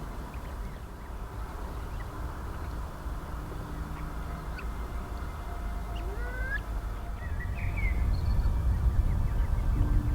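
Marsh birds calling: several short chirps and gliding whistled calls from about six seconds on, over a low rumble that grows louder in the last two seconds.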